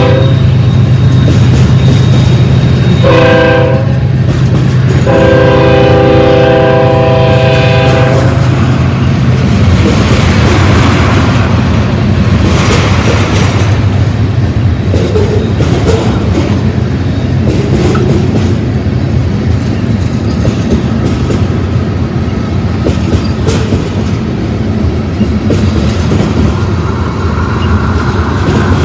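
Diesel locomotive chord horn on a BNSF freight train: the tail of one blast at the start, a short blast about three seconds in and a longer one from about five to eight seconds, over the locomotive's engine drone. After that, freight cars roll past with a steady rumble and wheel-on-rail clatter.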